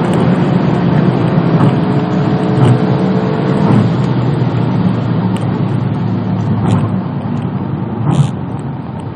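Volkswagen Golf GTI's turbocharged four-cylinder engine running at speed, with dense road noise and a few short knocks, the loudest near the end.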